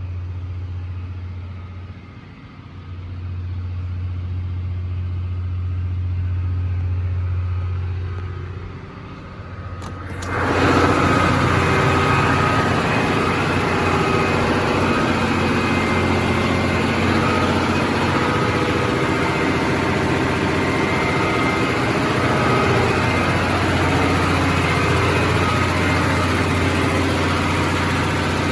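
Tug boat engine room machinery running with a steady low drone. About ten seconds in the sound suddenly becomes much louder and fuller, the full noise of the running engines.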